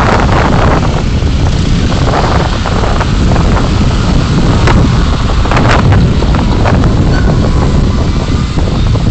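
Car driving, a steady low road and engine rumble with wind noise on the dashcam microphone, and a few short knocks around the middle.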